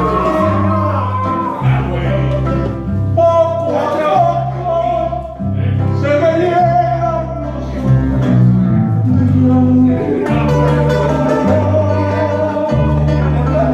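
A song: a voice singing over plucked guitar, with a bass line stepping from note to note.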